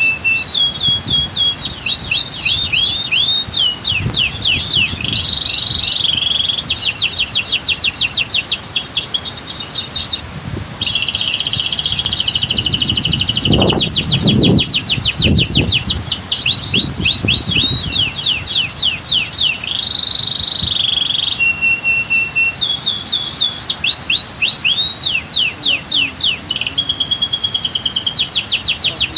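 Domestic canary singing continuously, switching every few seconds between fast trills of rapidly repeated notes and held whistled notes. A low rumble swells up about halfway through.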